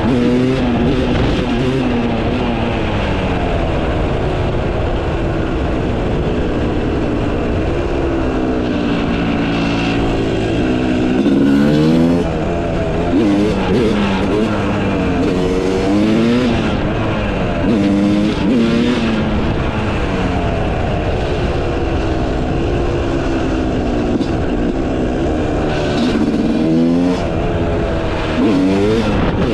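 Yamaha YZ250 two-stroke single-cylinder engine with a Pro Circuit exhaust, ridden hard: the engine note rises and drops again and again as the rider works the throttle and shifts gears.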